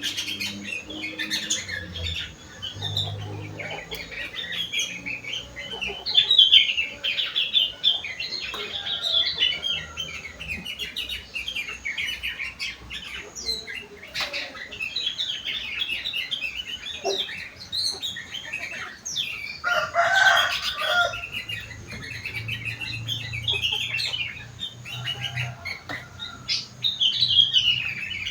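Sooty-headed bulbul (kutilang) singing a continuous run of quick chirps and warbles, its song filled with learned leafbird (cucak wilis) phrases, with a few louder bursts.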